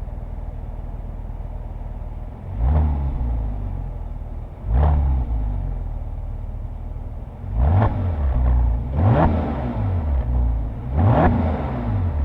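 Porsche 911 Carrera S (997) 3.8-litre flat-six exhaust, heard close at the rear mufflers. It runs steadily at a low note for about two seconds, then revs up sharply and drops back five times.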